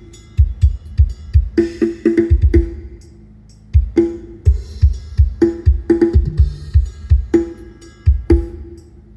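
Drum kit played through a Thai rot hae parade truck's large sound system for a drum sound check: heavy kick-drum thumps and ringing tom and snare hits in short fills, with a brief pause about three seconds in.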